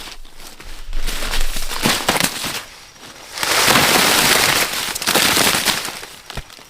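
Dry corn plants crackling and rustling in several bursts, loudest from about halfway through, as stalks, leaves and husks are handled during the corn harvest.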